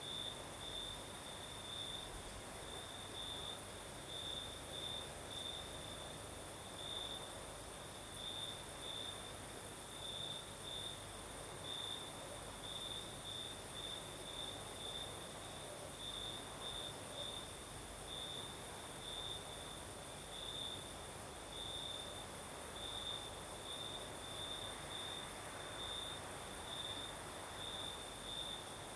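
Crickets singing at night: one gives repeated short chirps, roughly two a second, over a steady high-pitched insect trill. A faint breeze hisses underneath.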